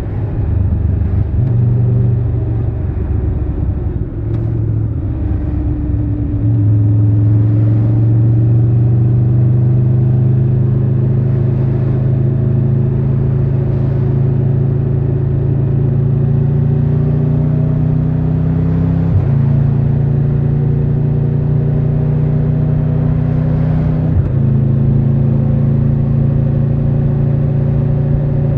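Triumph Tiger 1200 Rally Pro's three-cylinder engine under way, pulling with a slowly rising pitch after an uneven first few seconds. The pitch drops suddenly twice, about two-thirds of the way through and again a few seconds later, as the rider shifts up.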